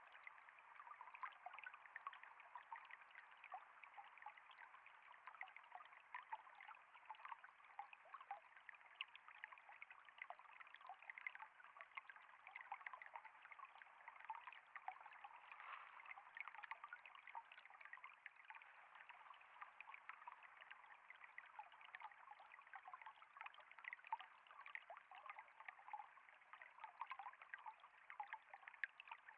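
Water flowing and trickling steadily, a faint continuous babble made of many small splashes.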